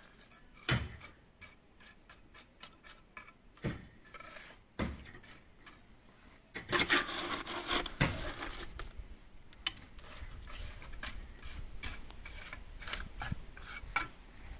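Hand tools scraping and knocking on masonry: a run of small clicks and scrapes, sharper knocks about a second in and again near four and five seconds, and a louder stretch of scraping a little past halfway.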